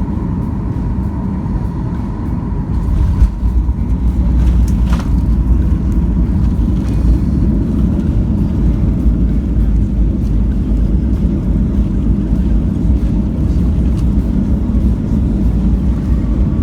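Steady rumble of a Boeing 737-800's jet engines and airflow heard from inside the cabin, growing louder about three seconds in and then holding.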